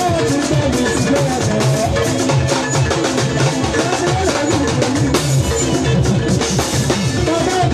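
Gospel band music led by a drum kit playing a steady beat, with bass drum and snare, under pitched instrumental lines.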